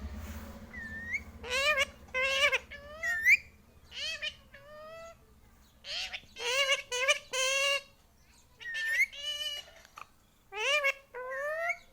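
Pet Indian ringneck parrot (rose-ringed parakeet) chattering in a string of short, high-pitched, warbling phrases with brief pauses between them, the kind of vocalising a talking parrot does when mimicking speech.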